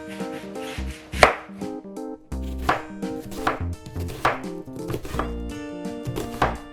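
A kitchen knife chopping on a cutting board: single separate strikes a little under a second apart, over background music.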